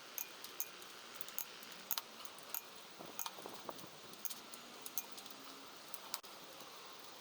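Light metallic clicks and clinks at irregular intervals, a few a second, as of metal tools and engine parts being handled, over a faint steady hiss. The clicks stop about six seconds in.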